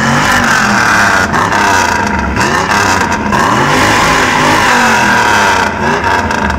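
American V8 engine revved in repeated blips, its pitch rising and falling several times.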